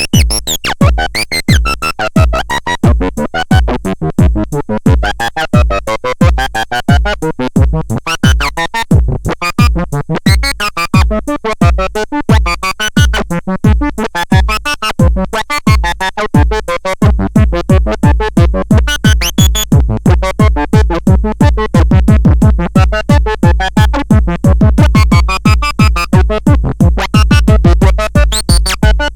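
Electronic synthesizer music over a steady pulsing low beat. The beat quickens a little past halfway.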